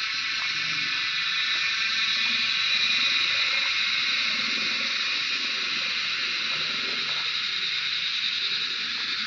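Steady high-pitched chorus of forest insects, a continuous shrill hiss with no breaks.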